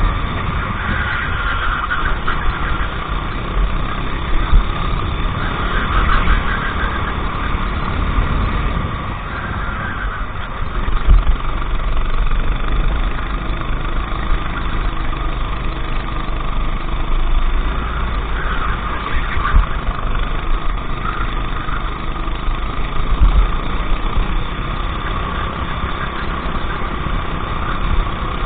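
Go-kart engine running at racing speed, its pitch rising and falling repeatedly as it revs up out of corners and drops off into them, over a steady low rumble.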